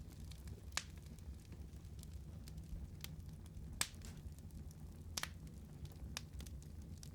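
Wood fire burning in a fireplace, with a steady low rumble and scattered sharp crackles and pops, the loudest about a second in and near the middle.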